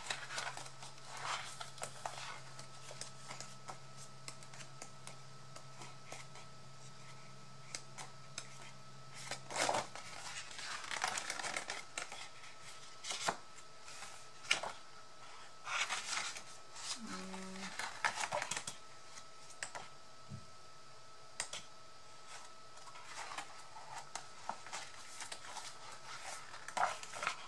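Sheets of craft paper being handled and sorted: intermittent rustling and crinkling with light taps and clicks. A low steady hum runs underneath and stops about ten seconds in.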